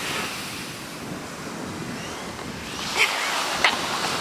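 Sea waves washing in on a beach, with wind buffeting the microphone. Two short sharp clicks stand out about three seconds in and half a second later.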